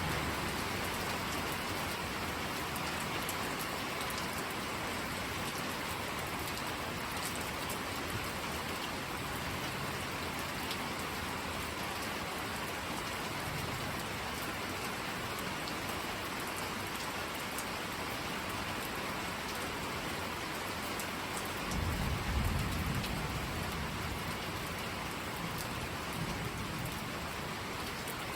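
Steady rain falling, with a low rumble of thunder swelling for a couple of seconds about three-quarters of the way through.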